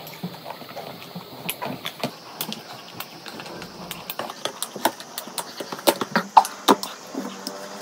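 Close-miked chewing of crunchy chatpate (spiced puffed-rice mix): an irregular run of sharp, crisp crunches, loudest near the end. A metal spoon scrapes and clinks in the ceramic bowl about four seconds in.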